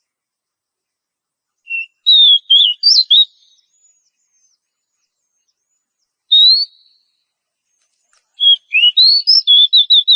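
Oriental magpie-robin (kacer) singing in three short phrases of clear whistled notes that sweep up and down, separated by silent pauses; the last phrase ends in a quick run of repeated notes. This is the song played as a lure to get caged kacer singing.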